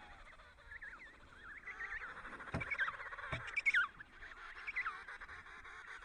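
A flock of birds calling: many short, overlapping calls that rise and fall in pitch, busiest around the middle.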